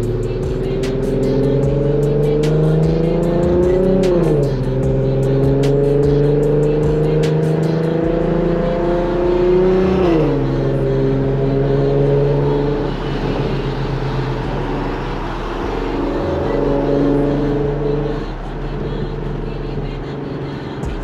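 Infiniti Q50 V6 with an aftermarket exhaust and resonated test pipes accelerating hard. The engine note climbs, drops sharply at an upshift about four seconds in, climbs again to a second upshift around ten seconds, then settles into steadier cruising with small changes in throttle. A music beat plays faintly underneath.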